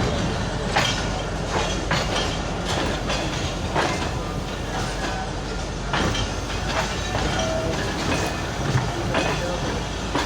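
Passenger train rolling slowly, its wheels knocking irregularly over rail joints and points above a steady rumble.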